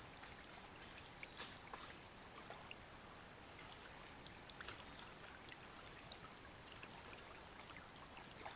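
Faint water trickling and splashing, with scattered small drips and ticks.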